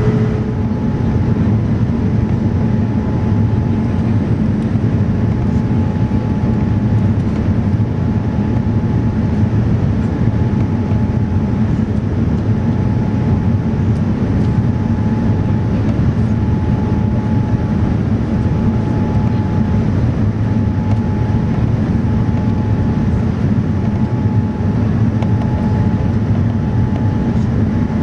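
Steady cabin noise inside a Boeing 787-9 airliner: engine and airflow noise, with a faint high tone coming and going.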